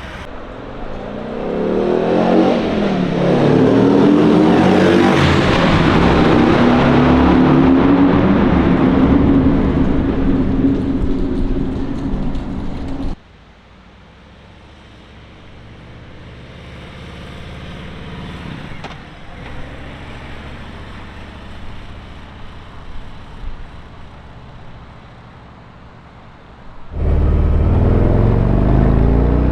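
Harley-Davidson Road Glide V-twin accelerating hard past the microphone, its pitch climbing and then dropping away as it goes by. After an abrupt cut it is heard much fainter, slowly growing louder. Near the end another abrupt cut brings it back loud and deep, with the revs rising.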